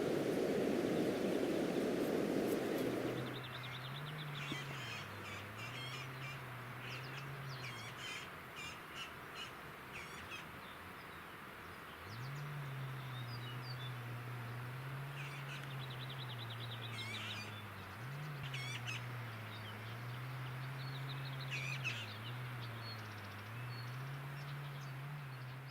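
Wild birds chirping and calling, short repeated notes coming in scattered groups, over a low droning hum that steps up and down in pitch. A low rushing noise fills the first few seconds.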